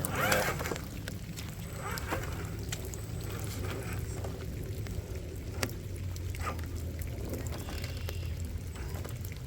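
A 1/10-scale RC rock crawler working over wet rocks: scattered clicks and brief scrapes of its tyres and chassis on stone, over a steady low rumble.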